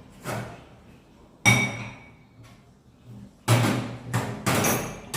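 Kitchen utensils and dishes being handled: a series of sharp knocks and clinks, one with a brief ringing about a second and a half in, and a quick run of three knocks near the end.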